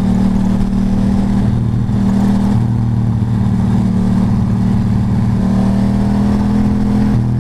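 Motorcycle engine running steadily while riding, its pitch shifting slightly a few times.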